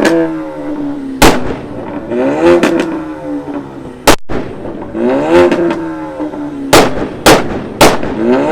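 Ford Mustang EcoBoost engine revved hard four times, each rev climbing and then falling away. Between the revs come five loud, sharp backfire bangs from the exhaust, three of them in quick succession near the end.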